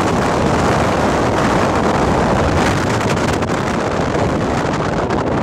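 Strong wind buffeting the microphone, a steady loud rushing noise with rapid flutter.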